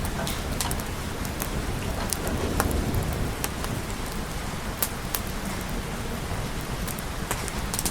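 Steady rain falling, with a low rumble underneath and irregular sharp ticks and crackles scattered through it.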